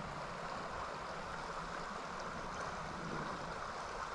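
Trout stream water flowing past in a steady, even rush.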